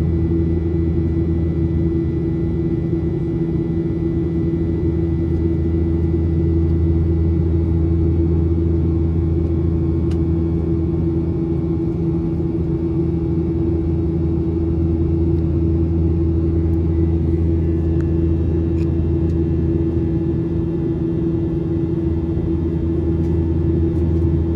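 Steady cabin drone of a Boeing 737-800: the hum of its CFM56-7B turbofans and rushing airflow heard from a window seat, a constant low rumble with unchanging tones.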